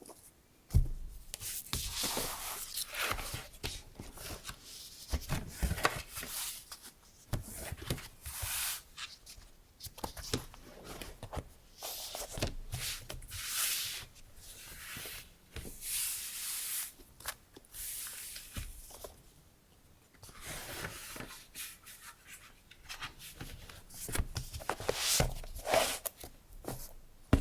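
Sheets of decorative paper being handled, rustling and rubbing in irregular bursts with short pauses, and a few light taps as they are set down.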